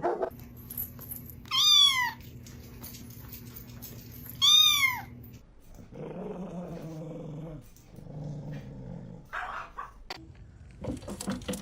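A cat meowing twice, loud high calls that rise and then fall, followed by two lower, drawn-out growling calls.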